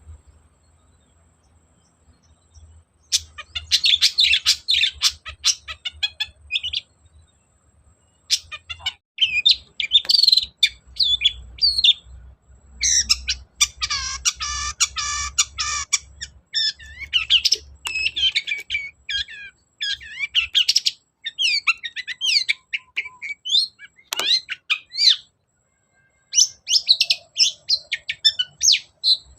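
Long-tailed shrike (cendet) singing in bursts of fast, high, chattering notes. The song starts about three seconds in and comes in phrases with short pauses between them.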